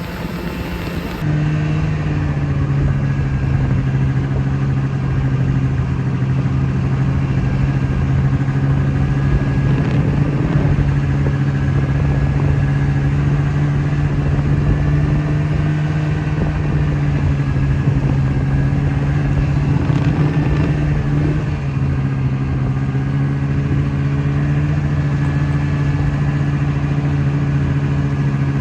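A vehicle engine running steadily under way, a constant droning hum that holds the same pitch, starting about a second in.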